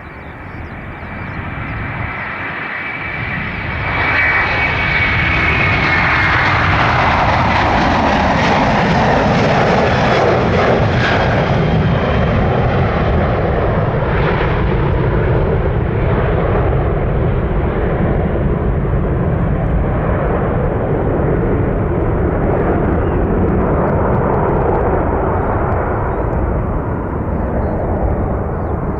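Jet airliner departing at take-off thrust. A high engine whine builds over the first few seconds and falls in pitch as the aircraft passes, then gives way to a loud, steady roar that eases slightly near the end.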